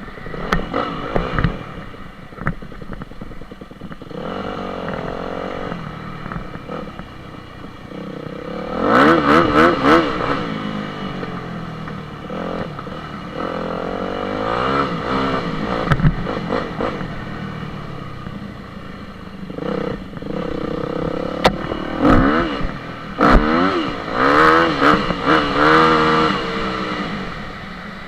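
Dirt bike engine being ridden, revving up and easing off again and again with the pitch rising and falling. The loudest throttle bursts come about nine seconds in and again near the end, with lower steady running between.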